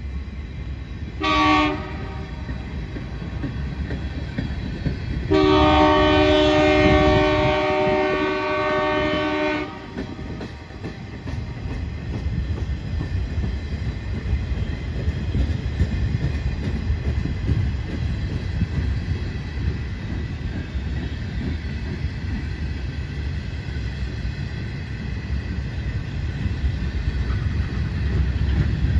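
Horn of the lead BNSF SD70 locomotive: a short blast about a second in, then a long blast of several seconds. After it, the ribbon-rail train's flatcars roll past with a steady rumble and wheel clicks over the rail joints.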